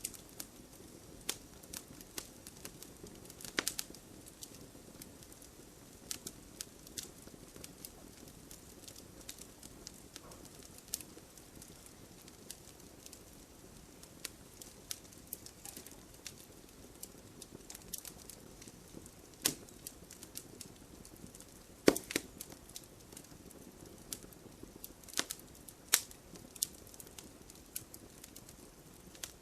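Wood fire burning in a fireplace: a soft steady hiss with irregular crackles and sharp pops of burning logs, the loudest pops about two-thirds of the way through.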